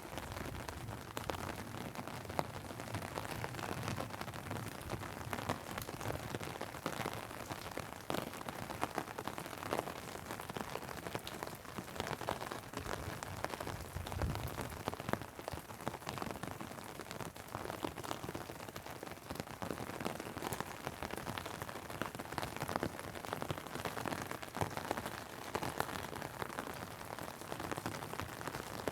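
Steady rain falling, with a dense patter of separate drops ticking throughout. A single low thud comes about halfway through.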